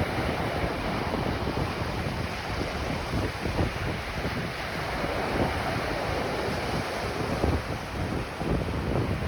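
Ocean surf washing onto a beach in a steady rush of noise, with wind buffeting the microphone and adding a low rumble.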